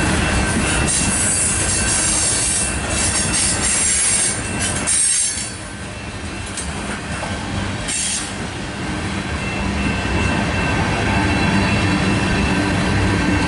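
Freight cars of a manifest train rolling past close by: steady rumble and clatter of steel wheels on the rails, with a thin high wheel squeal over it. The noise drops for a few seconds about five seconds in, then builds again.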